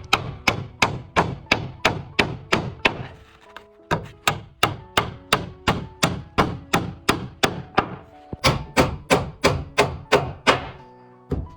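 Steady hammering on wooden roof boards, about three blows a second, with two short pauses.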